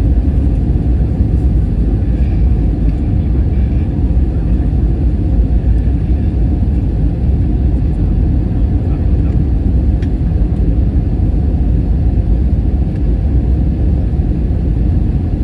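Steady low rumble of an Airbus A321's passenger cabin: engine and airflow noise, with a faint click about ten seconds in.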